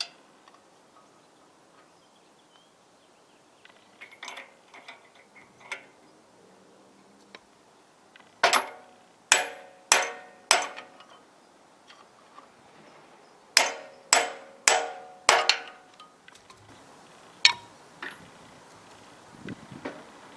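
Hammer tapping on metal: a run of four ringing strikes, a pause, another four, then a single strike, with lighter clinks of metal parts before them.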